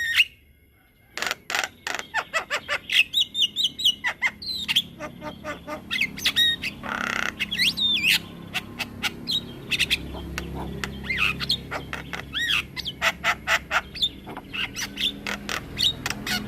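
Javan myna singing a long, rapid string of sharp clicks, chatters and whistled notes that glide up and down, after a short pause about a second in.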